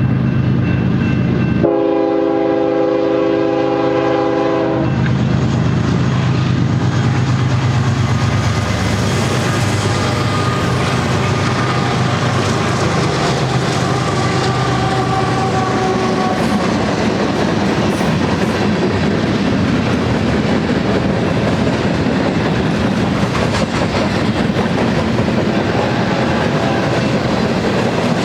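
A BNSF diesel freight locomotive sounds its multi-note air horn in one blast of about three seconds, a couple of seconds in. The train then rolls past with continuous wheel-on-rail rumble and clatter.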